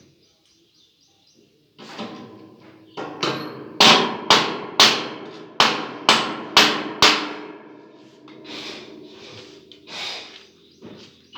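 A run of about eight sharp hammer strikes in quick succession, roughly two a second, each ringing briefly, with softer knocks before and after.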